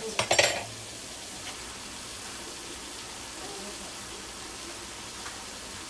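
Diced chicken frying in a wok, sizzling with a steady even hiss. A short noisy burst comes at the very start.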